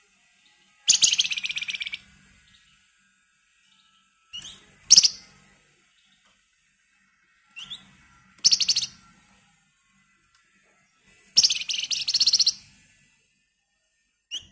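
A flamboyan (wergan Jawa) songbird gives four bursts of rapid, dense, high trilling, the "ngebren rapat" rattle. The first and last bursts last about a second and the middle two are shorter. Several begin with a short rising note, with pauses of a few seconds between them.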